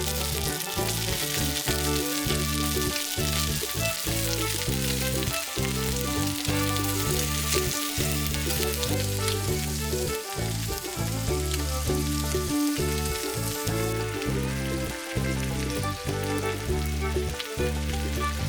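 Cubed beef steak sizzling and frying on a thick iron griddle plate, over background music.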